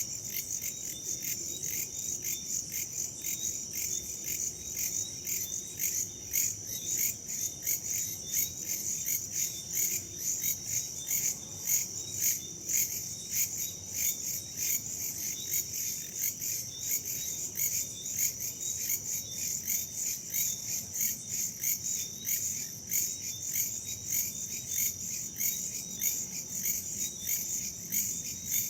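Dense chorus of crickets and other insects trilling, a steady high-pitched pulsing with a faint low rush of wind beneath.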